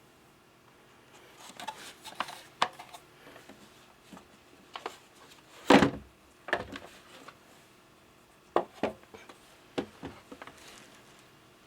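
Plastic humidifier parts being handled: scattered light clicks and knocks, with one louder knock a little under six seconds in.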